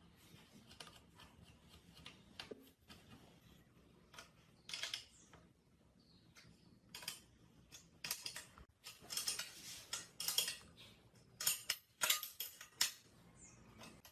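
Tools and metal parts being handled on a bench: irregular clinks, clicks and short scrapes, sparse at first and busier and louder over the second half.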